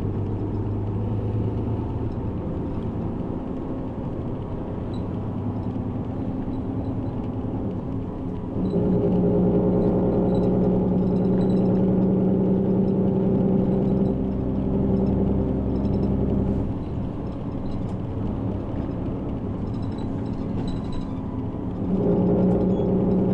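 Bus engine and road noise heard from inside the cabin while the bus is driving. The engine gets louder about nine seconds in, eases back near seventeen seconds, and gets louder again near the end, as the bus pulls away and then coasts.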